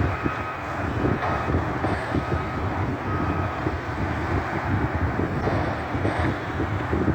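Front-loader garbage truck's diesel engine running with a loud, uneven rumble, with a faint broken high tone over it.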